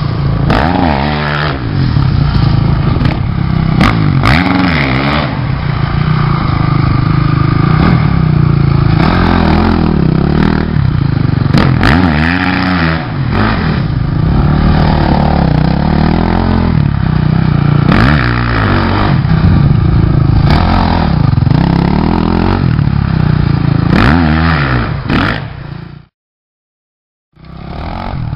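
Motorcycle engine revving up and down over and over as it is ridden, with scattered sharp knocks and clatter. The sound cuts out completely for about a second near the end, then comes back.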